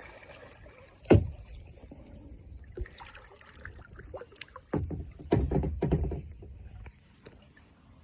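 Water splashing and sloshing around a kayak as it is paddled, with a sharp knock about a second in and a louder stretch of splashing between about five and six seconds.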